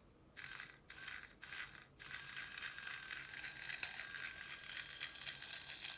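Motor and plastic gearbox of a battery-powered Trackmaster toy train whirring with a fine gear rattle and a high whine: three short runs, then running steadily from about two seconds in.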